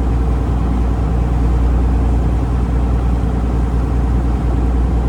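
Taxi boat's engine running steadily, heard from on board: a loud, unchanging low drone with a wash of water and hull noise over it.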